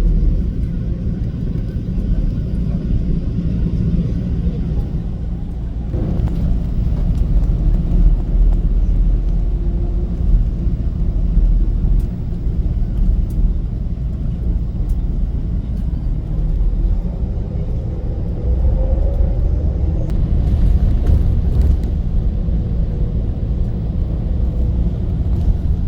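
Steady low rumble of a bus's engine and tyres on the road, heard from inside the cabin while riding, with a faint rising whine partway through.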